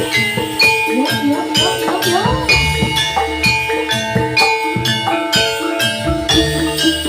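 Jathilan gamelan music: kendang drums and struck metal-keyed instruments play a steady, rhythmic pattern, with a wavering melody line over it between about one and two and a half seconds in.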